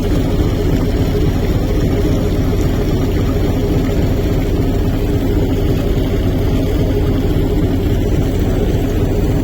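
Steady low rumble of a moving vehicle, unbroken and even in loudness.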